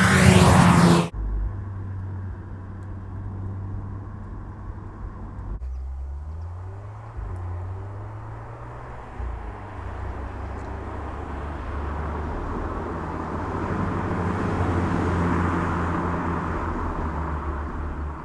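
Volkswagen Scirocco R's turbocharged four-cylinder engine passing close and loud, cut off abruptly about a second in. The car then drives on, its engine note stepping up and down through gear changes. Engine and tyre noise swell as it comes by near the end, then ease off.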